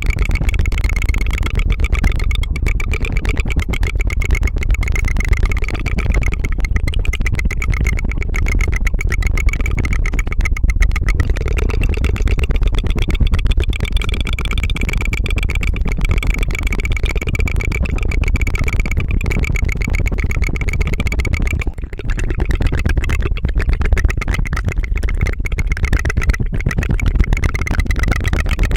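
ASMR tongue fluttering close to the microphone: a rapid, continuous rolled-tongue trill like a helicopter's 'tu tu tu', with a brief break about three quarters of the way through.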